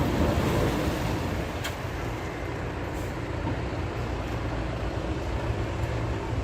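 Heavy earthmoving machinery running steadily, with a short click about one and a half seconds in.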